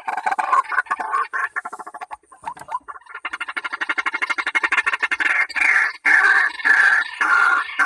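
White-breasted waterhen (ruak-ruak) calls: rapid, stuttering pulsed calling that grows louder about three seconds in and breaks into short repeated phrases with brief gaps.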